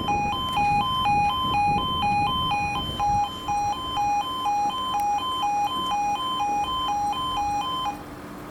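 Level crossing warning alarms (E2S Appello sounders) sounding a loud two-tone warble, two pitches alternating about twice a second, which cuts off about eight seconds in. A low rumble runs underneath for the first three seconds.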